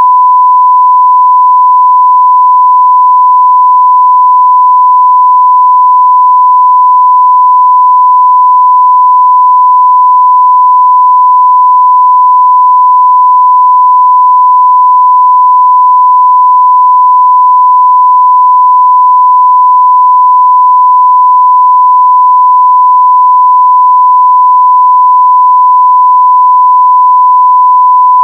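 A continuous 1 kHz sine-wave test tone at full level (0 dB), steady and unbroken.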